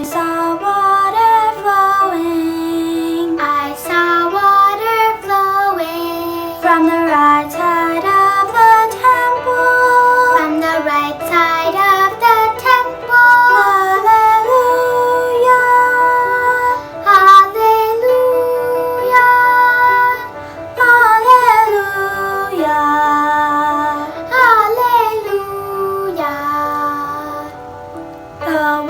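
Children's choir singing a slow hymn melody.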